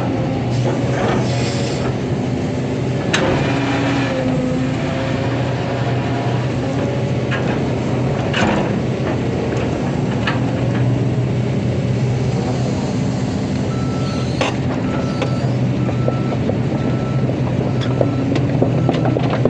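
Excavator's diesel engine running steadily under work, with occasional metallic clanks. About two-thirds of the way through, an alarm starts beeping in short, evenly spaced beeps.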